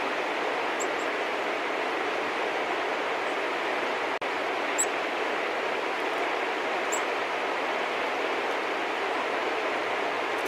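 A steady, even rushing noise with no clear source, over which small birds give a few short, high chirps: about a second in, near the middle, and about seven seconds in.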